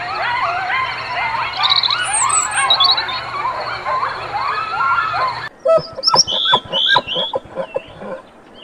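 A flock of birds calling all at once in a dense, overlapping chatter of rising and falling chirps over a low hum. About five and a half seconds in it cuts abruptly to a different recording of sparser short, sharp calls and clicks.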